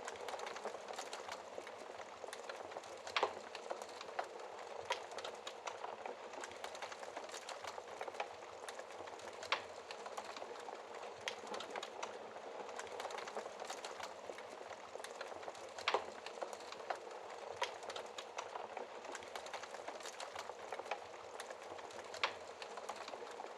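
Wood logs burning in a fireplace, crackling continuously with a low hiss and dense small snaps, and four louder pops spread through.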